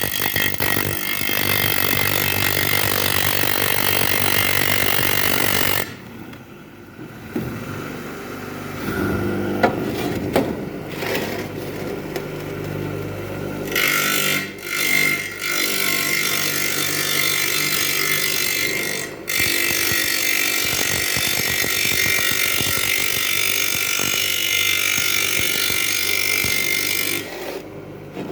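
Fireplace brick being ground into an oval shape, a steady gritty abrasive grinding noise broken by a few short pauses.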